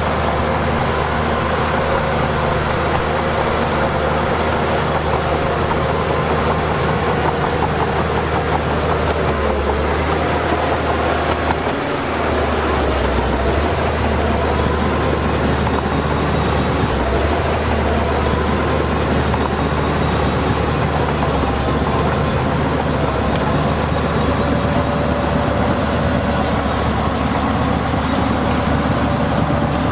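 Heavy earthmoving machinery running: loud, steady diesel engine noise with a pitch that wavers up and down, briefly easing about twelve seconds in.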